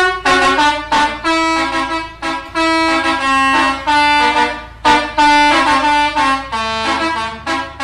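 Bus's musical "telolet" air horn (a Basuri horn) playing a quick melody: a continuous run of short and held notes at changing pitches.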